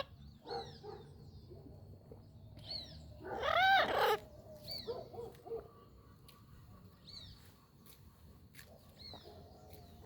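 Pet parrot calling: one loud, drawn-out squawk that rises and falls in pitch about three and a half seconds in. Short high chirps slide downward every couple of seconds.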